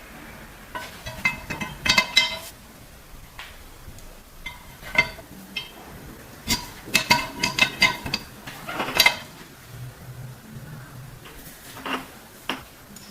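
Small metal parts clinking and tapping against each other in several quick clusters, each strike ringing briefly.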